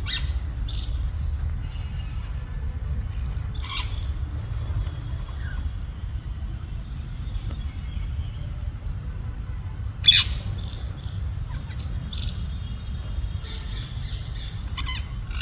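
Rose-ringed (ringneck) parakeets giving short, harsh squawks and chirps now and then, the loudest about ten seconds in and several close together near the end, over a steady low rumble.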